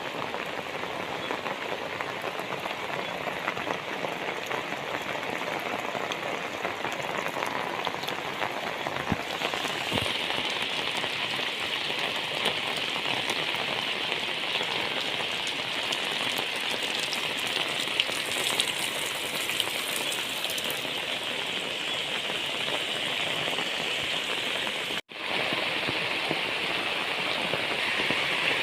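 Heavy rain falling steadily: a dense, even hiss that grows a little brighter about a third of the way in. It cuts out for an instant about 25 seconds in.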